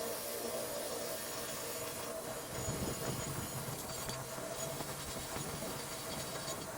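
A workshop machine running steadily, a hissing whir over a constant low hum, with no break in the sound.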